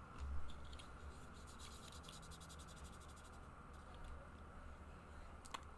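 Faint low hum with scattered light scratching and clicking noises.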